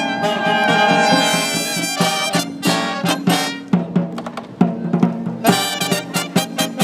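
A brass marching band plays an upbeat festival-song medley: trumpets, saxophones and trombones over drums, with a run of rapid notes in the first few seconds and punchy accented hits after.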